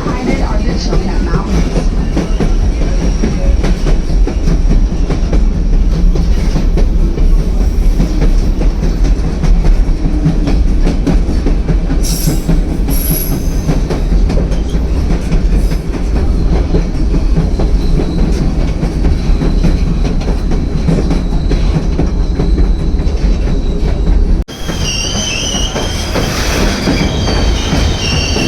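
White Pass & Yukon Route narrow-gauge train running: a loud, steady rumble with the clickety-clack of wheels on the rails. About 24 seconds in, the sound changes abruptly and the wheels squeal in high, drawn-out tones.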